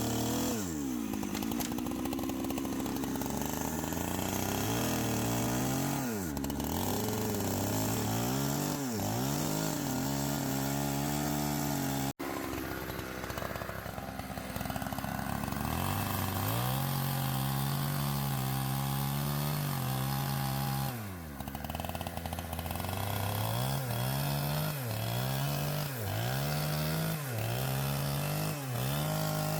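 Chainsaw cutting logs, the engine's pitch sagging and recovering again and again as the chain bites into the wood, with quick repeated dips near the end. It cuts out for an instant about twelve seconds in.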